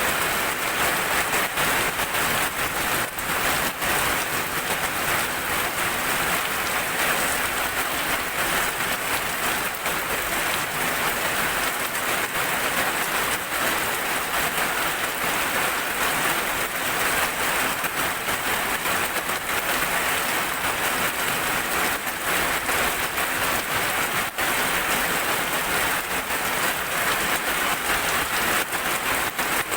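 Steady heavy rain falling on a surface, a dense, even hiss with fine crackling drops.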